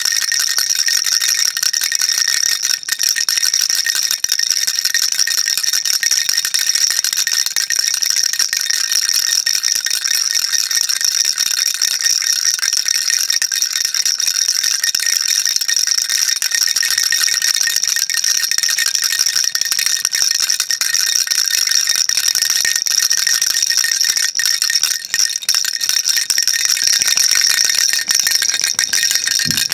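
Baby rattle shaken continuously, a dense, steady high-pitched rattling without pauses.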